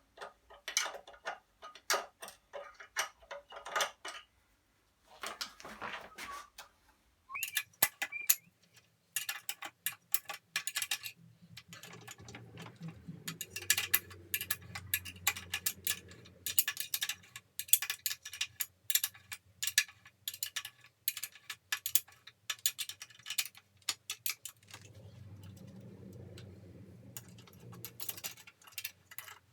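Hand ratchet wrench clicking in quick runs as the bolts holding the lower unit onto an Evinrude 50 hp outboard are run in and tightened. A faint low hum comes in twice, for a few seconds each time.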